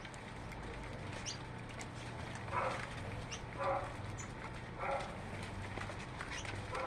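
Birds calling: a short harsh call repeated four times, about once every second or so, with thin high chirps in between. A steady low hum runs underneath.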